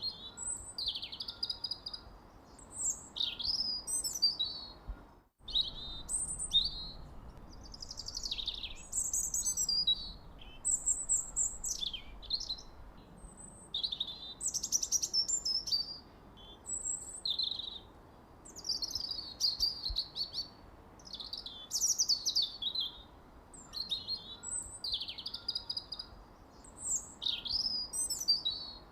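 Small songbirds chirping, with many short high chirps and quick falling notes overlapping, over a faint steady background hiss. The sound cuts out completely for a moment about five seconds in, then resumes.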